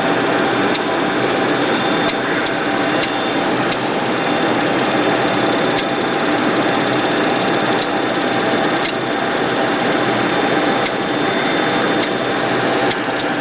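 Steady loud flight-deck noise of a Boeing 737-200 freighter in its initial climb after takeoff: rushing air and the JT8D turbofans, with a few faint steady tones and occasional light clicks.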